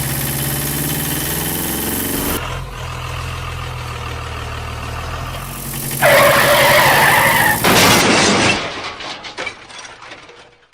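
Vehicle engine sound effects running loud and steady, changing abruptly a couple of times. About six seconds in comes a loud squeal lasting about a second and a half, and the sound fades near the end.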